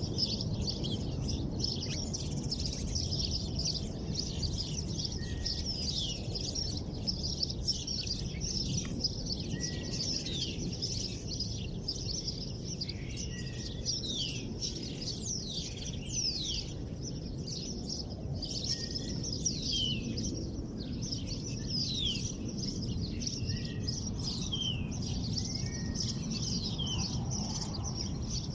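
Many small songbirds chirping and twittering together, a steady stream of quick high notes that slide downward, over a constant low background rumble.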